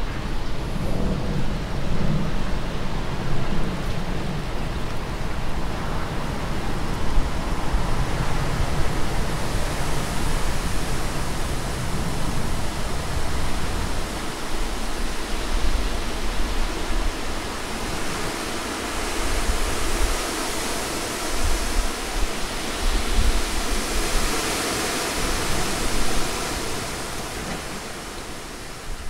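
Steady rushing of sea surf breaking on the beach, with a rumbling low end that eases about halfway through; it fades out near the end.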